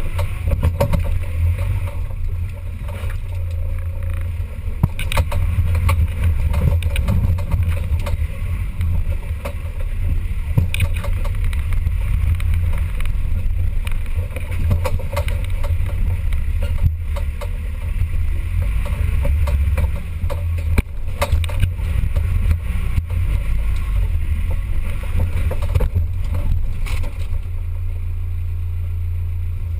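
Off-road 4x4 vehicle on the move over rough ground: a steady low rumble with frequent knocks and rattles.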